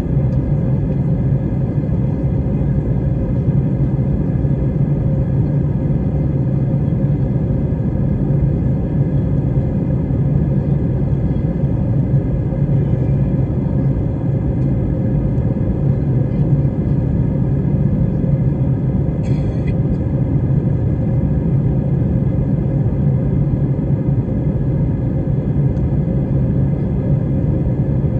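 Steady low rumble of a jet airliner's engines and rushing air, unchanging throughout. A brief faint high-pitched sound comes about two-thirds of the way through.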